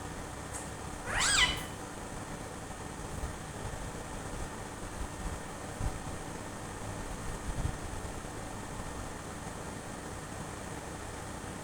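A pet parrot gives one short pitched call about a second in, over a steady low background hum.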